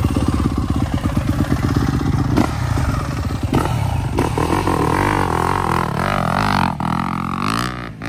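Dirt bike engine running close by. Its pitch rises and holds in the second half, then falls away as the sound fades near the end.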